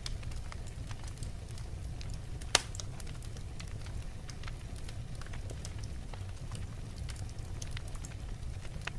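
Wood fire burning in a fireplace: irregular crackles and small pops over a steady low rumble, with one sharp, loud pop about two and a half seconds in.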